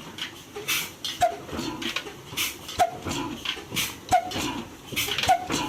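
Old 35 HP Ruston Hornsby diesel engine running slowly, with a regular beat of exhaust strokes.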